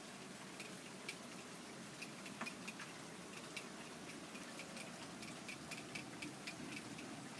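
Rain falling in a storm: a faint steady hiss with irregular drips ticking on hard surfaces.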